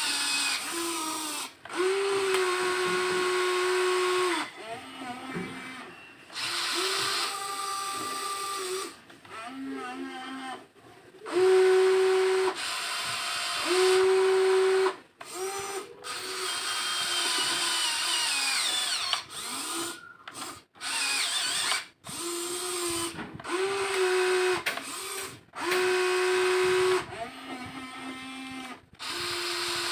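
Small electric motors of a WLtoys XK 16800 RC excavator whining in short stop-start runs of a second or two as the boom, arm and bucket are worked, each run a steady hum at a slightly different pitch, with a few runs sliding up or down in pitch.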